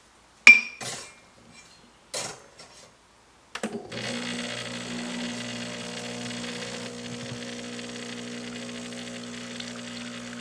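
Two sharp knocks, then about three and a half seconds in the Mazzer Mini's flat-burr grinder motor starts and runs steadily, grinding coffee beans.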